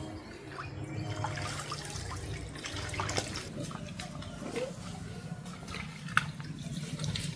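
Water splashing and dripping, with scattered clicks and knocks and one sharper knock about six seconds in.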